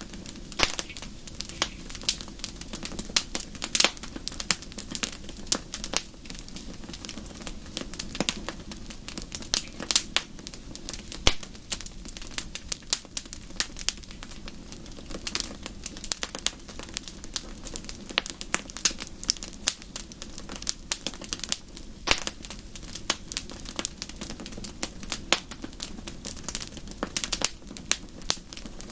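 Wood fire crackling in a fireplace: a steady low rumble with frequent irregular sharp pops and snaps.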